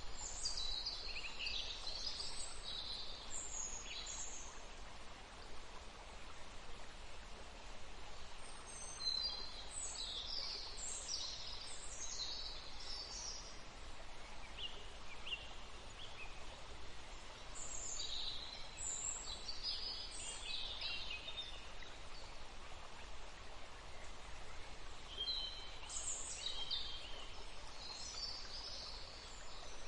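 Songbirds singing in clusters of quick, high chirps and trills every several seconds, over a steady hiss of running water.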